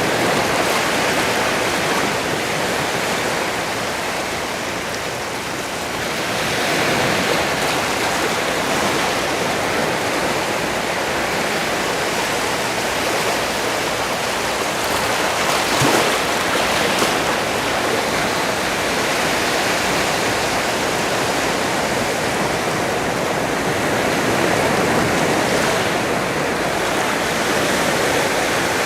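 Sea surf: a continuous rush of waves washing in and out, swelling and easing slowly over several seconds, with one brief sharper splash just past halfway.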